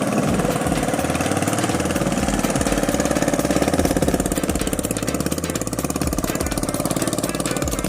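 Kubota hand tractor's single-cylinder diesel engine running steadily with a fast, even chugging beat, easing off a little about halfway through.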